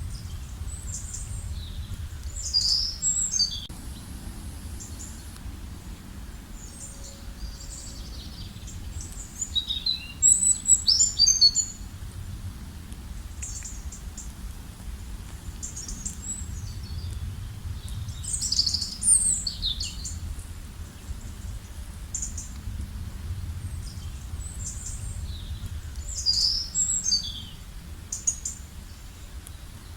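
Songbirds singing in short chirping phrases that come back about every eight seconds, the loudest about ten seconds in, over a steady low rumble of outdoor background noise.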